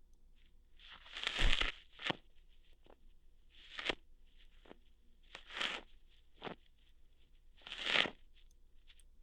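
Ear hairs being plucked out, ASMR style: four scratchy pulls that each build up and end in a sharp snap as the hair comes free, with a few smaller single clicks in between.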